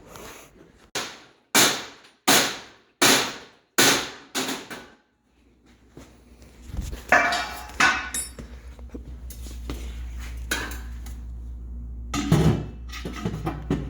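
Hammer blows on sheet metal, about seven ringing strikes roughly 0.7 s apart, beating clearance ("speed dents") into the car's body for the exhaust. After a short pause a steady low hum comes in, with a few more knocks and clatter.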